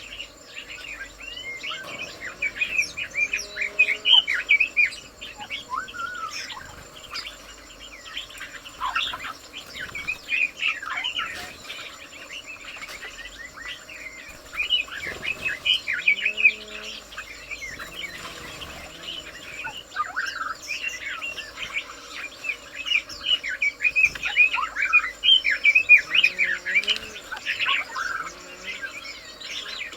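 Several birds chirping and twittering in dense bursts of quick calls, over a steady high thin insect buzz.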